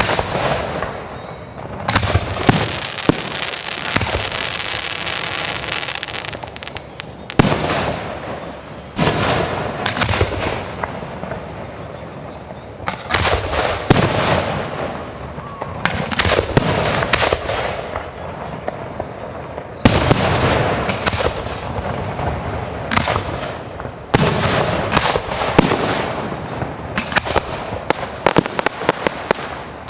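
Fireworks display: repeated sharp bangs of shells bursting, often several in quick succession, with dense crackling in between.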